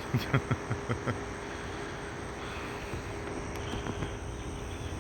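A pigeon's wings clapping, about six quick claps in the first second, over steady chirring of crickets and other insects.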